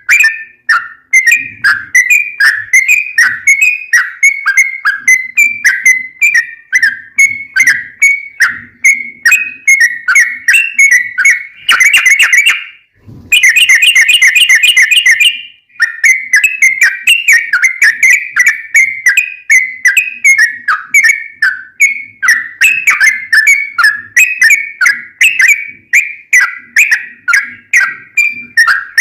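Yellow-vented bulbul (trucukan) singing a long, rapid string of loud chirping whistled notes. About 12 seconds in the notes tighten into a fast trill, broken by a short pause, before the ordinary chirping run resumes.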